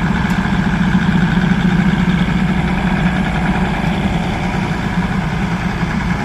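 Diesel railcar engine idling steadily, a continuous low drone.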